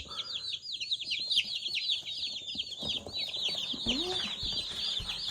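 A brooder full of day-old meat chicks peeping continuously: a dense chorus of high, short cheeps, each sliding down in pitch, many overlapping at once.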